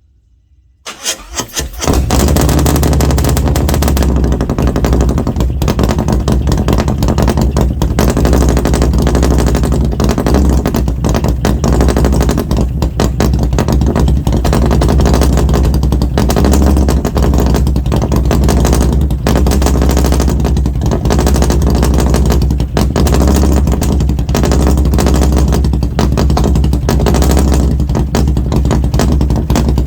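Harley-Davidson Milwaukee-Eight V-twin with an SS 475 camshaft, running through Mutazu 2.0 megaphone slip-on mufflers. It comes in abruptly about a second in and then runs loud and steady.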